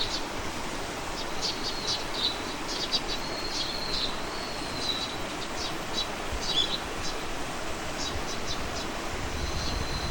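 Songbirds chirping: many short high calls, with a couple of longer thin whistled notes that sag slightly in pitch, over a steady background hiss.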